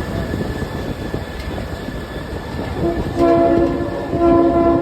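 Passenger train rumbling along the track. About three seconds in the locomotive sounds two short chord blasts of its horn, the second near the end.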